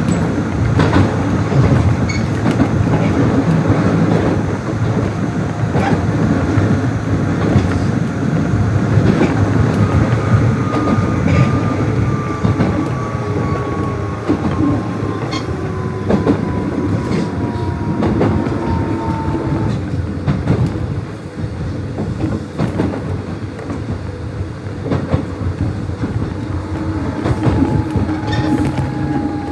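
Nishitetsu 600 series electric train running, a steady rumble with the clickety-clack of wheels over rail joints. A thin whine slowly falls in pitch through the middle, breaks off about two-thirds of the way in, and comes back lower near the end.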